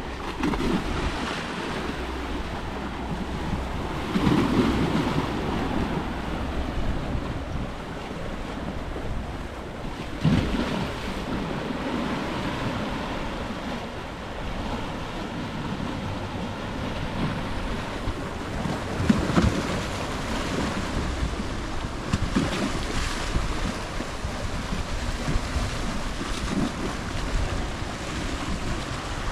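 Sea waves surging and breaking against a rocky shore, with wind buffeting the microphone. The surf swells up louder every several seconds.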